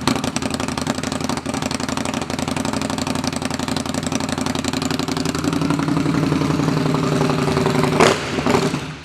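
2015 Indian Scout's 69-cubic-inch water-cooled V-twin idling through its exhaust pipes just after starting. The exhaust is loud enough to earn a "holy cow". There is a short rise in level about eight seconds in, and then the sound stops.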